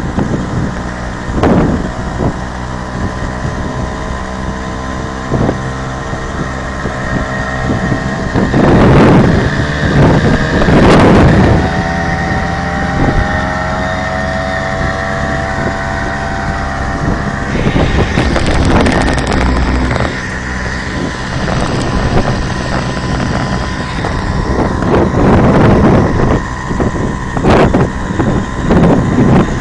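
Hercules Prima 5S moped's small two-stroke engine running, its pitch rising several times as it gathers speed, with wind buffeting the microphone in gusts. These are the odd noises the owner is asking a forum about.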